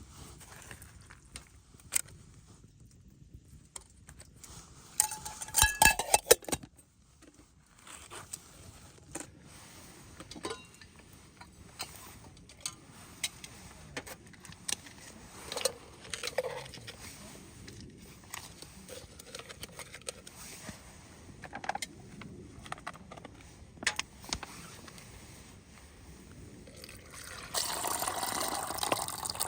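Scattered clicks and light knocks of camp gear being handled, with a louder clattering cluster and a short metallic ring about six seconds in. Near the end, water starts pouring steadily.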